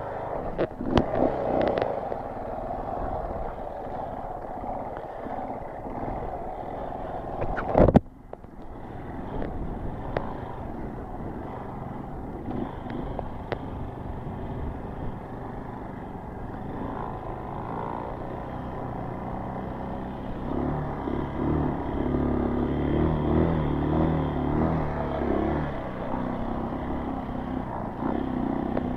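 Honda CRF dual-sport motorcycle's single-cylinder four-stroke engine running under a rider on dirt trails, with a sudden loud knock about eight seconds in. The engine grows louder and steadier from about two-thirds through as the bike is ridden harder.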